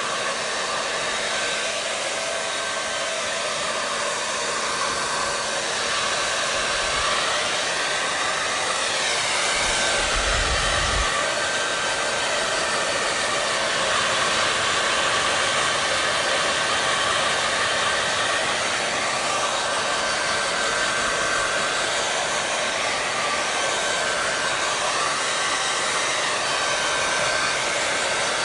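Hair dryer (blow dryer) running continuously: a steady whooshing rush of air with a faint constant whine, its tone shifting slightly now and then. A brief low rumble comes about ten seconds in.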